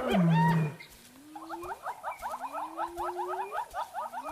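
Spotted hyena clan calling: a fast run of high giggling notes, about six a second, over repeated rising whoops, after a loud low call in the first second.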